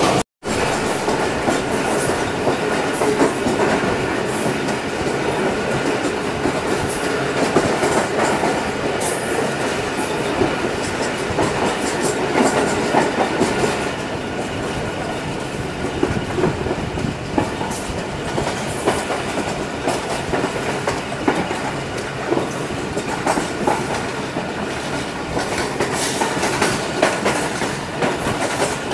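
Moving passenger train heard from an open coach doorway: steady running noise with wheels clattering irregularly over rail joints.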